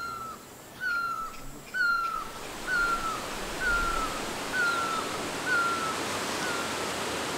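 A bird repeating a short falling whistled note about once a second, some eight or nine times, the notes fading near the end, over the steady rush of running water that grows louder partway through.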